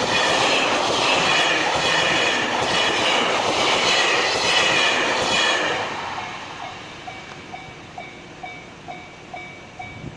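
Electric train passing over the level crossing, wheels clattering over the rail joints, then dying away about six seconds in. After that the crossing's electronic warning bell is left going 'kan-kan' at about two strikes a second, and it stops near the end.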